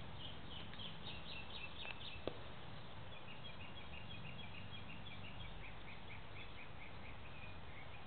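A songbird calling in a steady series of short high chirps, about three a second, with one sharp click a little after two seconds in.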